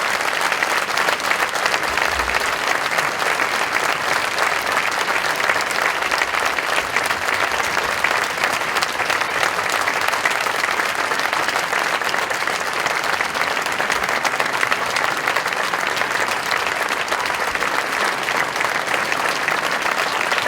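Concert audience applauding steadily, a dense wash of many hands clapping.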